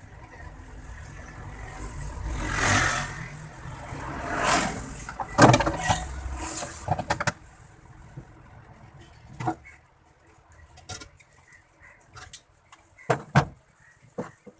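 Road vehicles passing with a low rumble, two rushes swelling and fading a few seconds in. A cluster of sharp clicks and knocks follows, then a few scattered clicks.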